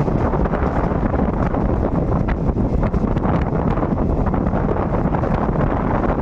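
Train running, a steady loud rumble with wind buffeting the microphone.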